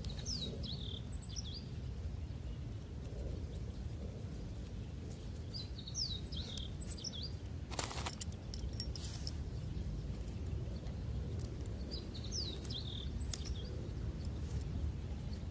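Outdoor ambience: a bird calling three times, each a short phrase of quick high chirps, about six seconds apart, over a steady low rumble. A single brief click or knock about eight seconds in.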